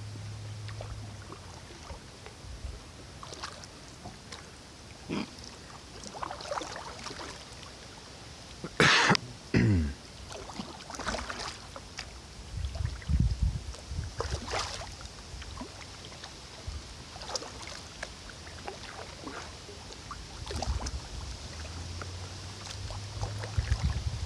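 Kayak paddle strokes dipping and splashing in the river water, with two loud sharp knocks about nine seconds in.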